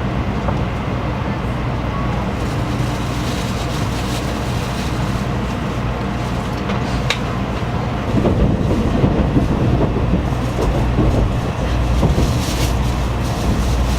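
Shinkansen bullet train running, a steady rumble and rush of noise that grows louder about halfway through.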